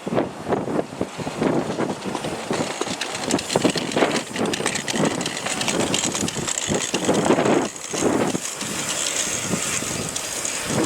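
A narrow-gauge train running, with wind buffeting the microphone in irregular gusts.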